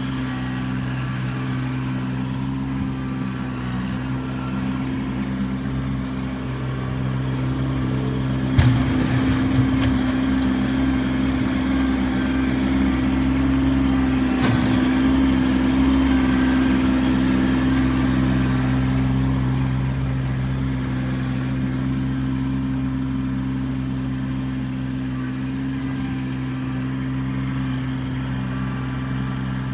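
Kubota B2650 compact tractor's three-cylinder diesel engine running steadily. It works harder and louder for about ten seconds from roughly a quarter of the way in, with two sharp knocks about six seconds apart, then settles back.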